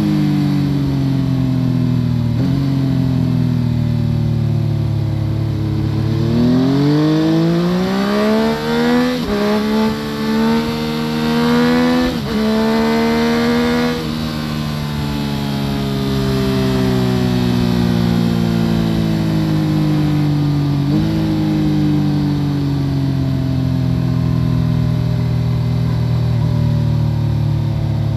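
2014 Yamaha FZ-09's inline three-cylinder engine through an Akrapovic full exhaust system, heard from under the seat while riding. About six seconds in it revs up hard through two quick upshifts, then the revs fall away slowly for the rest of the time, with a short rise in pitch near the end.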